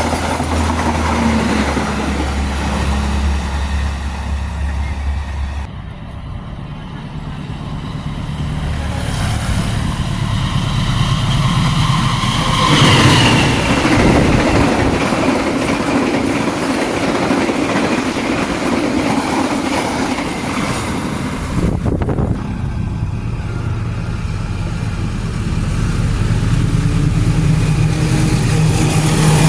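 Passing long-distance passenger trains hauled by diesel locomotives: a steady low engine hum with rolling wheel noise. The sound changes abruptly about six seconds in and again about twenty-two seconds in, and it gets louder around thirteen seconds in.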